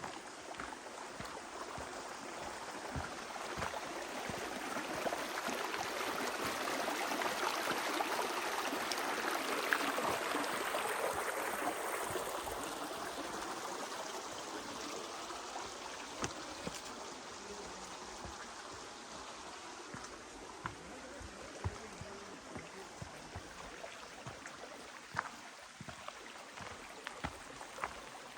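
Stream water rushing and splashing over rocks, swelling louder about a third of the way through and then easing off, with a few scattered clicks over it.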